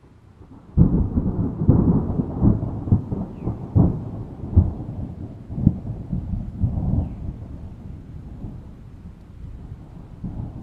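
A thunderclap bursts in about a second in and rolls on as a rumble broken by a series of sharp cracks, fading over the last few seconds into a steady hiss of rain.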